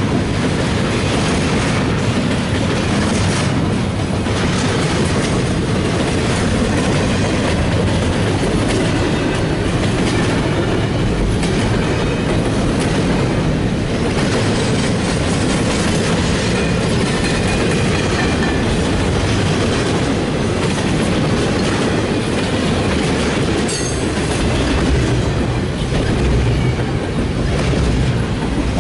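Double-stack intermodal freight cars rolling past at close range: a steady rumble and clickety-clack of steel wheels over the rail joints.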